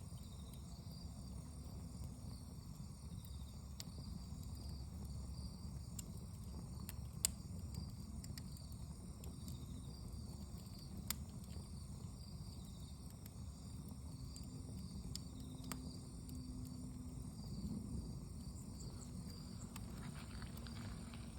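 Wood fire crackling with scattered sharp pops, the loudest about 7 seconds and 11 seconds in, over a steady low rush, while insects chirr steadily in the background.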